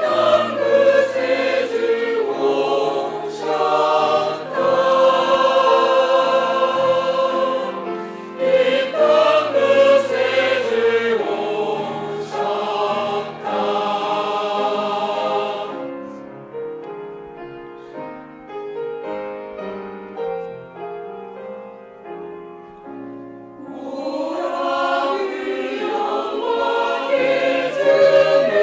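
Church choir singing a Korean Christmas cantata with instrumental accompaniment. About sixteen seconds in, the voices drop out for a softer instrumental interlude, and the choir comes back in near the end.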